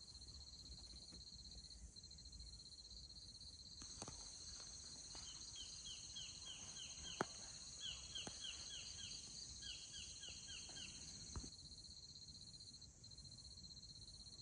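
Faint steady trilling of insects in a rice field, two high unbroken trills on top of each other. From about five to eleven seconds in, a creature calls in three short runs of quick, falling chirps, five or six notes to a run.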